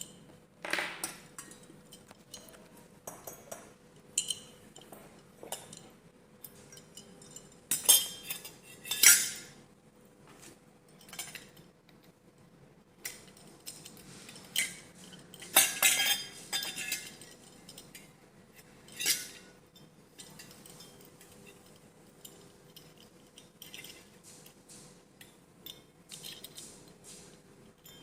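Hard objects clinking and clattering as they are handled, in irregular bursts, with the loudest clatters about 8, 9, 16 and 19 seconds in. A faint steady hum runs underneath.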